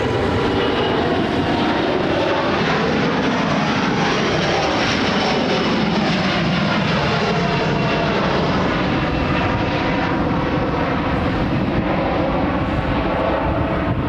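Airbus A330 twin-jet airliner passing low overhead: loud, steady jet engine noise with whining engine tones that slide in pitch as it goes by.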